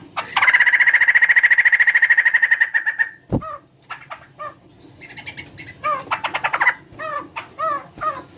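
Laughingthrush (poksay) calling: a loud, fast rattling chatter for about three seconds, then a series of short, repeated clucking notes with a brief rattle in between, a chicken-like voice typical of this bird.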